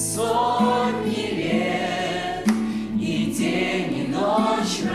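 Choir singing a slow song in held notes that move from pitch to pitch.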